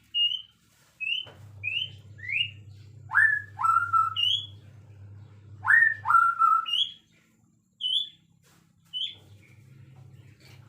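A songbird singing a phrase of about a dozen short, clear whistled notes, mostly quick upward slurs, some high and some lower and paired, with short gaps between them. A faint low hum runs beneath for much of the time.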